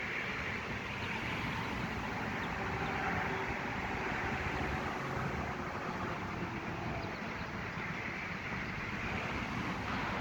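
Steady outdoor background noise: a constant hiss and low rumble of distant road traffic.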